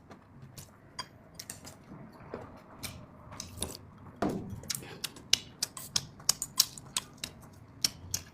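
Close-up eating sounds: utensils clicking and scraping against a dish in quick, irregular sharp clicks, with a firmer knock about four seconds in.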